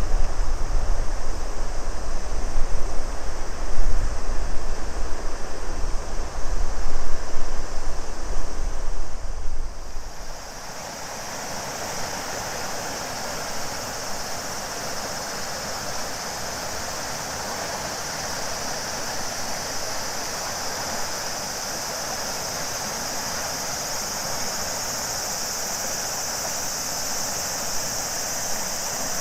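River water flowing steadily, with cicadas singing in a continuous high drone. For about the first ten seconds a heavy low rumble lies under it, then stops abruptly.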